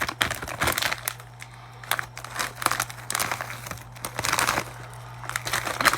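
Plastic snack-chip bag crinkling in irregular bursts as it is handled and opened, with a low steady hum underneath.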